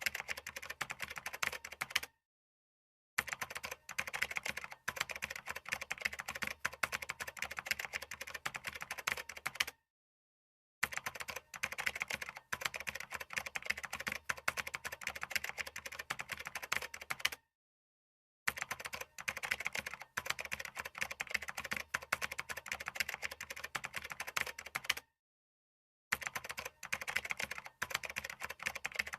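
Fast typing on a computer keyboard: a dense, steady stream of key clicks, cut by four brief dead silences about a second long, roughly every seven to eight seconds.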